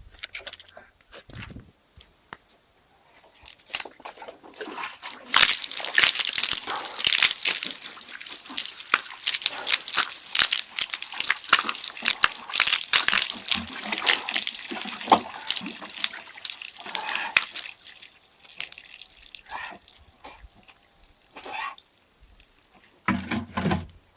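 Water pouring and splattering with many small drips. It is loudest from about five seconds in to around eighteen seconds, then thins out.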